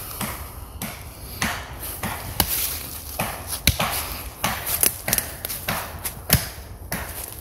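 Campfire crackling, with irregular sharp pops and snaps and a couple of louder knocks.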